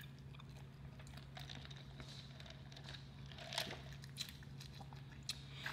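Faint eating sounds: soft chewing and scattered small mouth clicks, a few louder ones in the second half, over a steady low hum.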